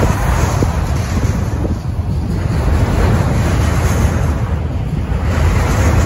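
Autorack freight cars rolling past: a steady rumble and rush of steel wheels on rail, with wind buffeting the microphone.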